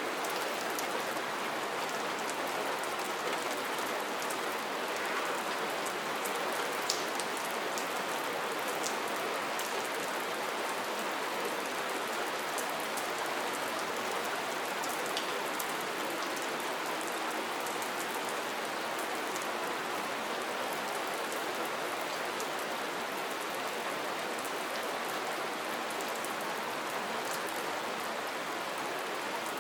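Steady rain falling, with many small drop ticks over an even patter.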